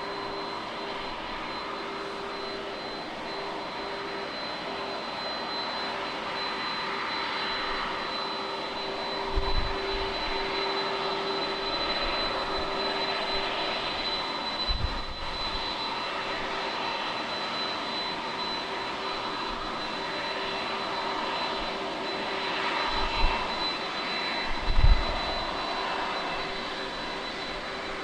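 Heavy jet airliner's engines running at takeoff power: a steady rushing noise with a held low hum and a high whine. Several brief low thumps come in the second half, the loudest near the end.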